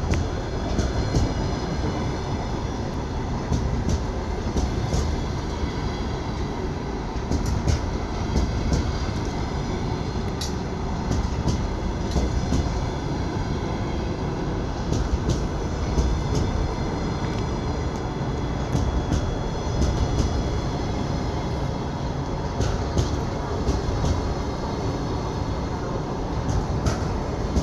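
Double-decker passenger train behind an EP20 electric locomotive running on the rails: a steady rumble of wheels with frequent sharp clicks at uneven intervals as the wheels cross rail joints.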